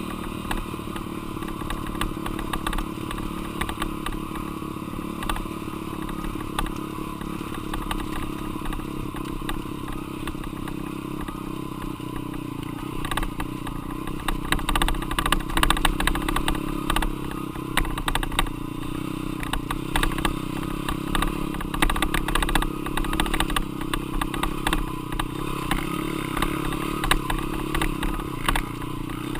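Dirt bike engine running while being ridden, with clattering knocks and rattles throughout. From about halfway in the engine note and loudness rise and fall more, with frequent louder peaks.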